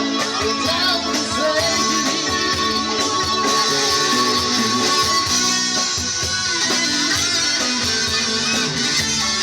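Rock music played on guitars: steady strummed guitar under a lead guitar line with bending notes.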